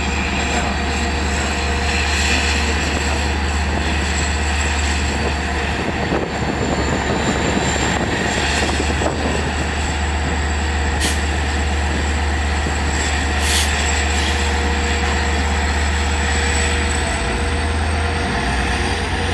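Long Island Rail Road diesel train running, with a steady low engine rumble and a thin, steady high whine over it. Two sharp clicks come about two and a half seconds apart in the middle.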